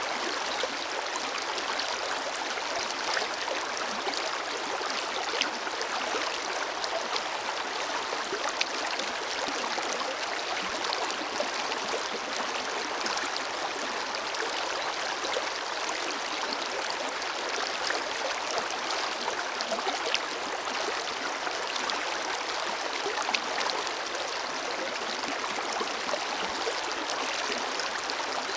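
Forest river flowing steadily, with the even rush and many small splashes and gurgles of water over rocks.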